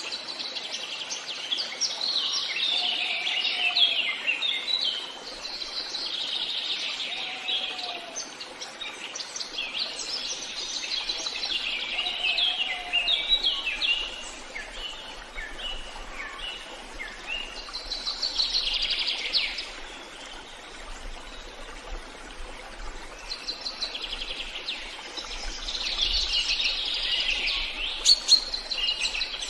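Several wild birds singing in a forest: busy, high chirping and warbling phrases coming in bouts of a few seconds, with a lower short whistled note repeating every four seconds or so in the first half, over a faint steady hiss.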